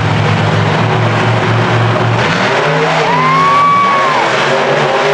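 Monster truck engines running loud, holding a steady note and then changing pitch as they rev. About three seconds in, a high squeal rises and falls for about a second.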